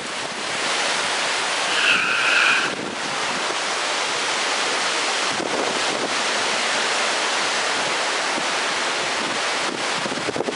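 Rain falling steadily, an even hiss. About two seconds in, a brief high tone sounds over it for under a second.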